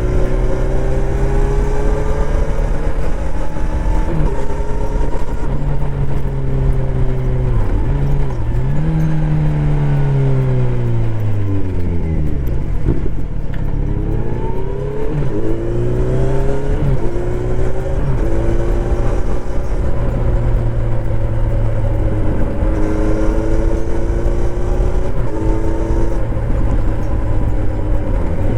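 Kawasaki Z900RS's inline-four engine through its stock full exhaust system while riding: it revs up through the gears with several upshifts, the pitch falls steadily as the bike slows about halfway through, then it pulls away again, shifting up.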